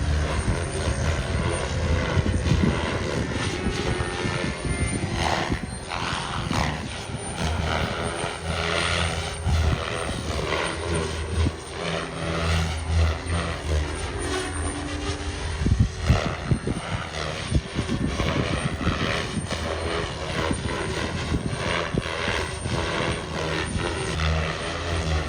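Radio-controlled model aircraft flying, its motor and propeller running continuously with the pitch slowly rising and falling as it manoeuvres.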